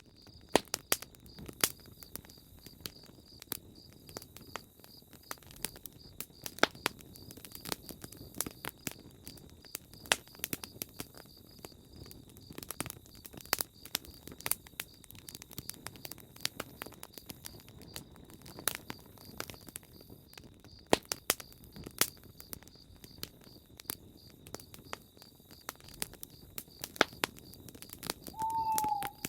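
Campfire burning with irregular sharp crackles and pops, over a steady high chirring. Near the end comes a single short owl hoot.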